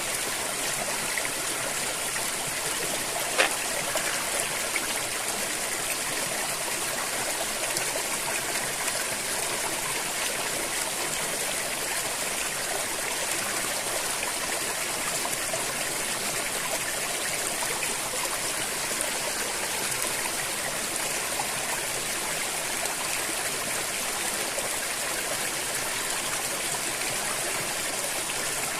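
River water flowing and trickling over rocks in a steady, even rush. A single sharp click stands out a little over three seconds in.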